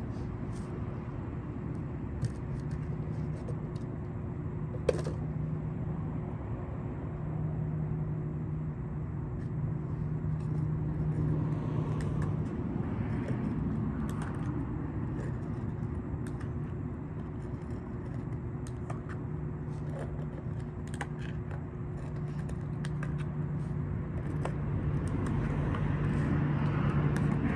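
Steady low hum of a vehicle engine running, with scattered small clicks and one sharper click about five seconds in.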